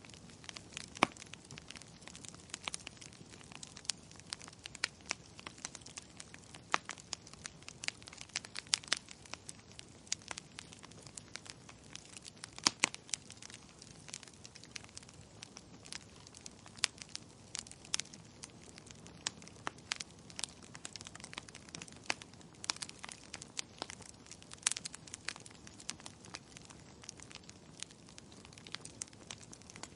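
Wood fire burning in a fireplace: a low steady hiss with frequent sharp, irregular crackles and pops from the burning logs.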